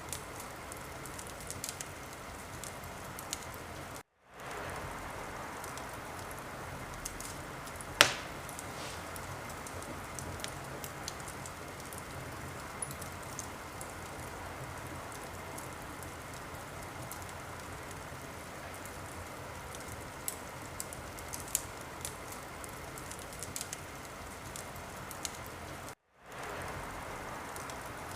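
Wood fire in a fireplace crackling: a steady hiss with scattered small pops and one loud sharp pop about eight seconds in. The sound cuts out briefly twice.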